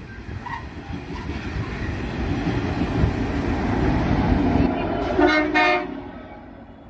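Freight train passing close by: hopper wagons rolling past with a steady rumble, then a Pacific National TT class diesel locomotive. A short chord-like horn blast sounds about five seconds in, lasting about half a second, and the train noise then falls away.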